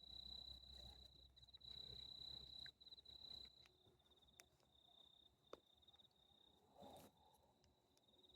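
Faint, steady high-pitched cricket trill, breaking into quick pulses in places, with a few faint ticks around the middle.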